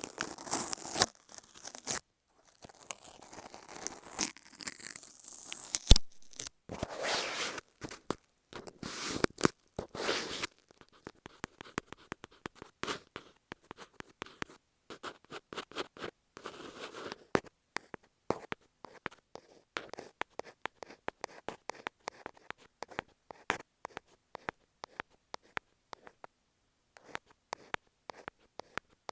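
Masking tape on an earphone microphone being scraped and cut with a utility knife: dense crackling, tearing scrapes with short gaps. About ten seconds in it gives way to light, sparse clicks and scratches of an ear pick on the tape.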